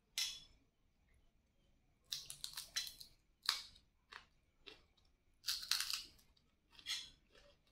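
Close-up crunchy chewing of a mouthful of fried salted ribbonfish (ikan asin layur) and fried rice. The crunches come in irregular bursts, busiest about two to three seconds in and again near six seconds.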